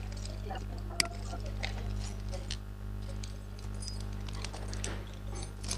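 Scattered clicks and taps of a computer keyboard and mouse, one sharper click about a second in, over a steady low electrical hum.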